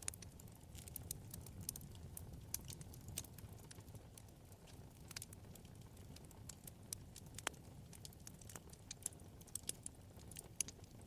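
Wood fire burning in a fireplace: irregular small crackles and pops of burning logs over a low, steady flame rumble.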